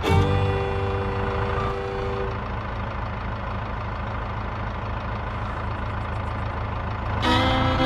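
A radio-controlled model vehicle running steadily with an engine-like sound and low rumble. Music fades out in the first two seconds and comes back sharply near the end.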